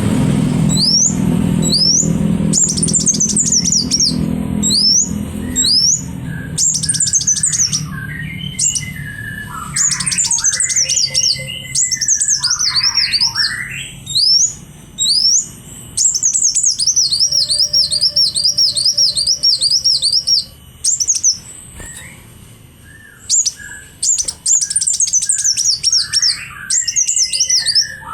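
Caged songbird singing persistently in molt, in rapid series of high, sharp sweeping chirps and trills with lower warbled phrases mixed in. A low rumble underneath fades out about six seconds in.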